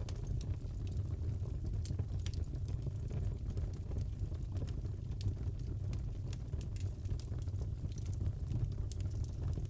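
Fireplace fire crackling: a steady low rumble of the flames with irregular sharp pops and crackles scattered throughout.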